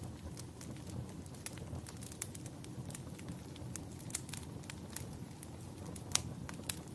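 Wood fire crackling, with irregular sharp pops and snaps over a steady low rush; one louder pop near the end.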